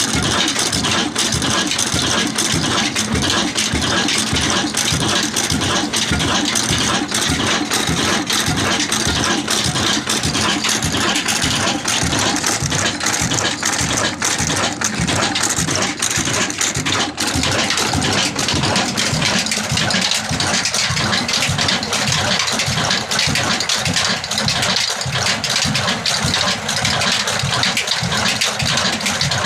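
Kala desi oil engine, a slow-speed diesel rated 26 hp at 300 rpm, running steadily at idle with an even, regular beat and some rattle.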